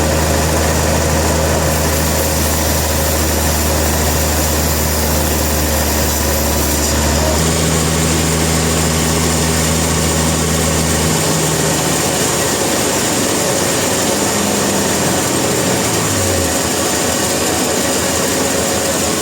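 Sawmill machinery running with a steady engine hum under a constant hiss. The hum changes about 7 and 11 seconds in, and near the end one tone slides down in pitch as a motor slows.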